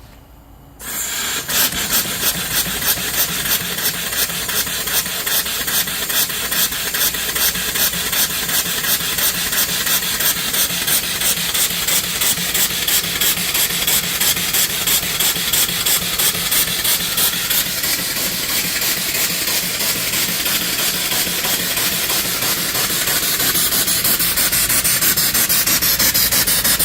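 Home-built steam mill engine (3-inch bore, 4-inch stroke) taking steam about a second in and running with a rapid, even chuff, its cylinder release valve open blowing out water with the steam. The beat grows louder near the end.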